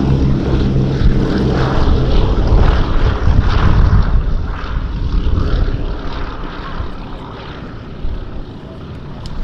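Four-engined Boeing B-17G Flying Fortress droning past on its Wright Cyclone radial engines. It is loudest about three to four seconds in and fades away towards the end.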